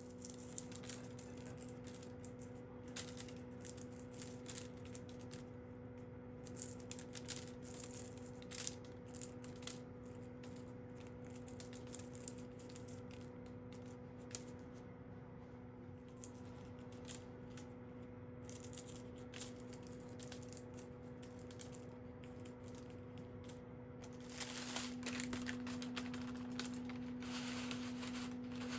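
Dry, irregular rattling and clicking of dried herb leaves and stems being handled and stripped, over a steady low hum. About 24 seconds in, a steady hiss joins.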